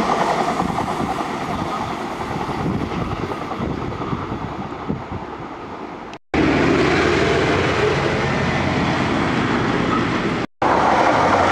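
Diesel multiple-unit passenger train running along the line and fading into the distance over about six seconds. After an abrupt cut comes a steady loud rumble, and near the end, after another cut, road traffic with a tractor engine.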